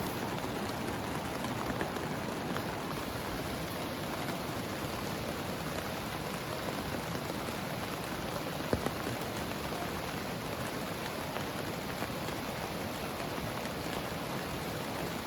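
Heavy rain falling steadily, with a couple of sharp drop taps a little past the middle.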